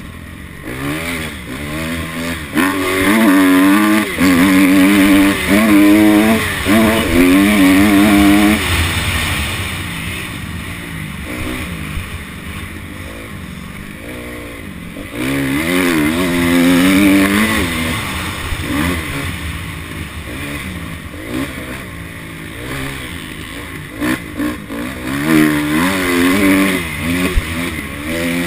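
Honda CRF250 single-cylinder four-stroke dirt bike engine revving up and down as it is ridden around a motocross track. It is loudest in hard bursts a few seconds in and again about halfway through.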